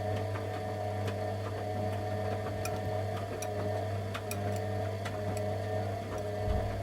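Candy Aquamatic 100F washing machine running in the heating stage of its wash: a steady motor hum with a wavering whine as the drum turns, and light irregular clicks.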